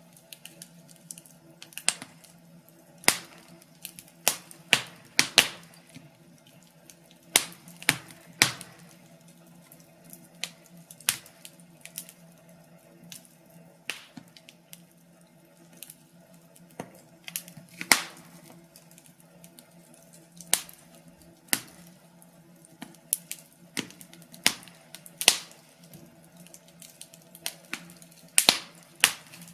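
Wood fire in a fireplace crackling, with sharp irregular pops every second or so over a low steady hum.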